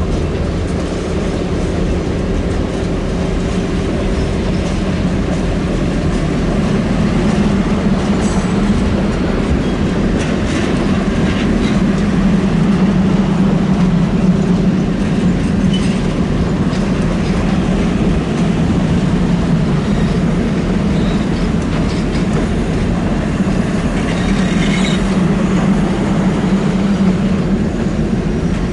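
Canadian Pacific passenger cars rolling past: a steady rumble and clatter of steel wheels on the rails, a little louder about halfway through.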